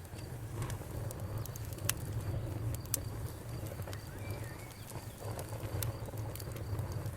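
Campfire crackling: irregular sharp pops over a steady low rumble, with a brief bird chirp about four seconds in.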